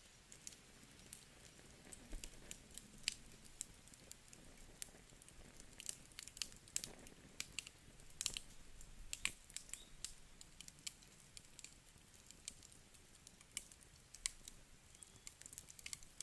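Campfire crackling: irregular sharp snaps and pops, several a second at times, over a faint low hiss.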